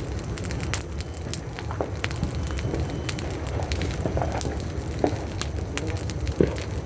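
Firecrackers and fireworks going off in the surroundings, a dense scatter of sharp crackles and pops over a steady low rumble.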